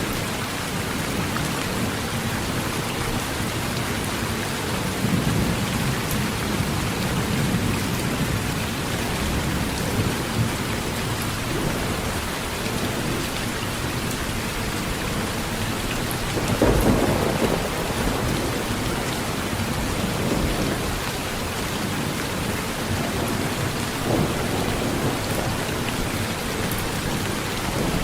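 Heavy rain falling on a metal roof as a steady hiss, with low thunder rumbles swelling in several times. The strongest rumble comes a little past halfway.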